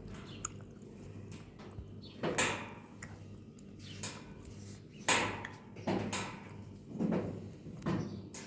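A handful of irregular knocks and scrapes, about five, as of things being handled and set down, over a steady low hum.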